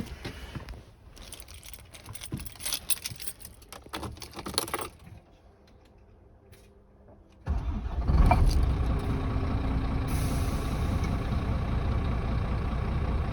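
Scania R440 truck's 13-litre straight-six diesel starting about seven and a half seconds in, then settling into a steady, even idle. Before the start, a run of clicks and rattles.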